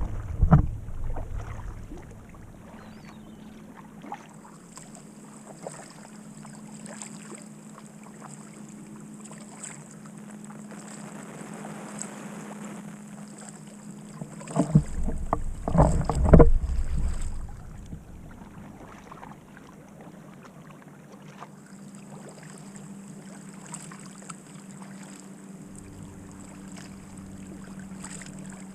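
Kayak paddling on calm water: faint paddle dips and drips over a steady low hum. There is a loud burst of low bumping and buffeting at the start and again about halfway through.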